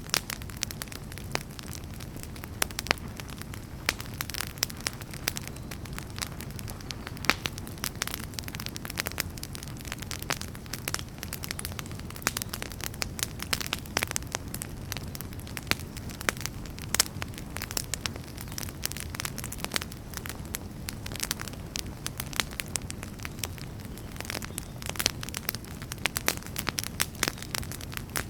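Wood fire burning in a fireplace: a steady low rumble of flames with frequent irregular crackles and pops of burning logs, thicker near the end.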